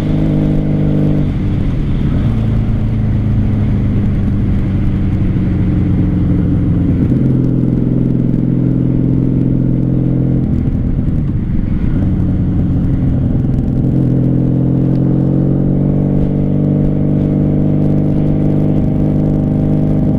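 Motorcycle engine running under way, a steady engine note that shifts in pitch about a second in and again around ten seconds in, over a low rumble.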